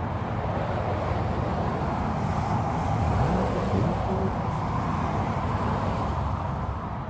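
Road traffic noise: a motor vehicle going past, with an engine note rising in pitch about halfway through, over a steady low rumble.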